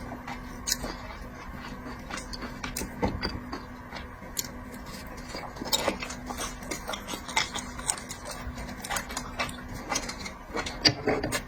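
Close-up eating sounds of seafood being chewed: irregular wet clicks and smacks, a few sharper ones, over a steady low hum.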